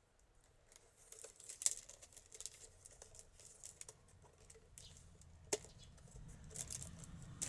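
Light crackling and small ticks of a woven basket's wooden uprights and pine-root strips being handled, with one sharper snap about five and a half seconds in.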